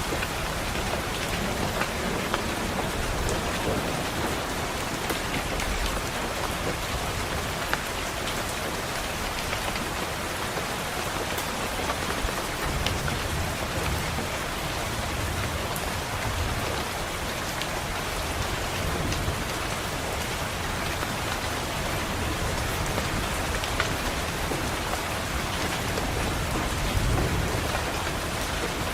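Steady heavy rain pattering on a window, with scattered sharp drop clicks. Low thunder rumbles swell in twice, the second near the end.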